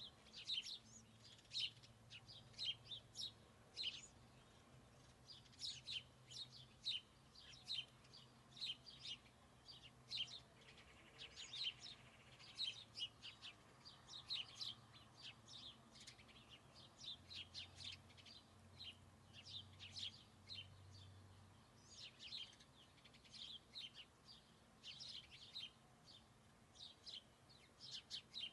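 Small birds chirping: many short, high chirps in quick runs, several a second, over a faint low hum.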